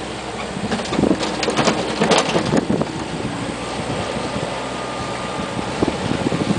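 Tafe 2800 tractor engine running steadily, with a cluster of rattles and knocks from about one to two and a half seconds in.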